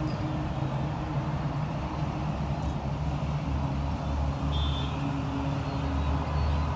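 Steady low engine hum, like nearby motor traffic, with a short faint bird call about four and a half seconds in.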